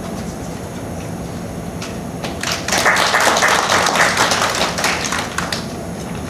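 Audience applauding: a short burst of clapping that starts about two seconds in, lasts about three seconds and fades out.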